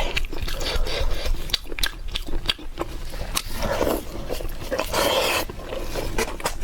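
Close-miked eating: a rapid run of chewing clicks and mouth smacks, with two longer wet, slurping stretches about halfway through and again about two-thirds through.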